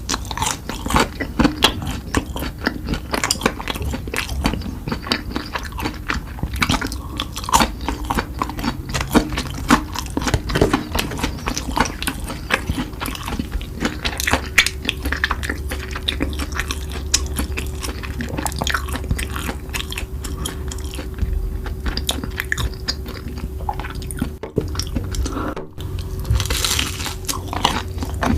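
Close-up chewing and biting while eating noodles with chicken: a dense, irregular run of wet mouth clicks and small crunches.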